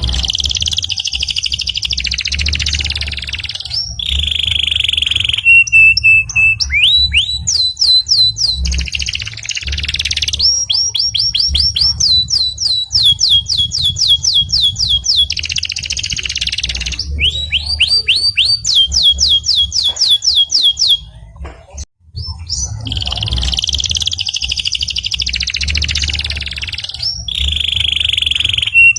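Canary singing a long song of fast trills and rapidly repeated rising notes. It breaks off briefly about three-quarters through, then resumes.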